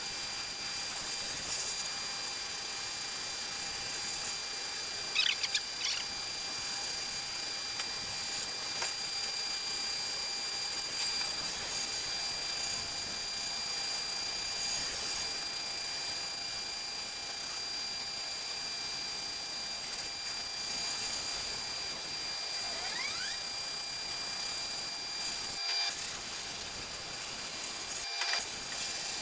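Sandblasting cabinet in use: a steady hiss of abrasive blasting from the gun onto metal, with a steady high whine running under it.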